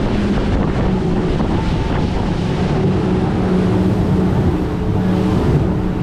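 Speedboat engine running with a steady drone, with wind buffeting the microphone and water rushing past the hull.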